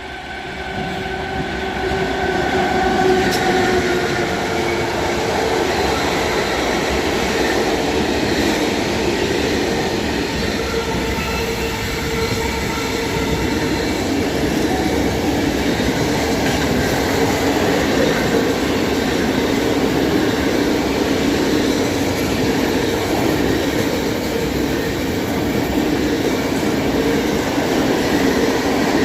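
A train running past on rails. The sound swells over the first couple of seconds, then holds as a steady, loud rolling of wheels on rails, with faint whining tones through it.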